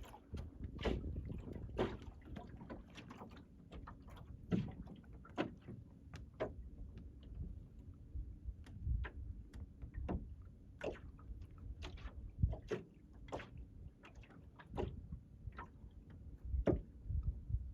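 Small wooden sailing dinghy under way: irregular light knocks, clicks and creaks from the hull and fittings, with water slapping at the hull, over a low steady rumble.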